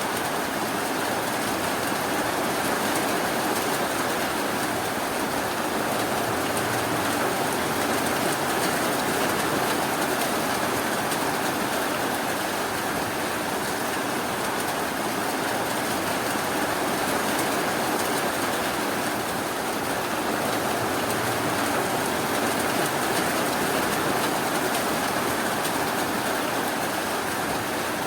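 Steady rainfall, an even continuous hiss without thunder or separate drops standing out.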